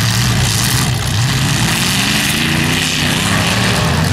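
Engines of several demolition derby cars running together, a loud, steady mass of engine noise, with one engine revving up in pitch about a second and a half in.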